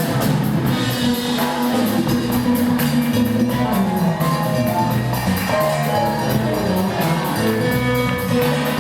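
Live band music: guitar and bass over fast, steady percussion.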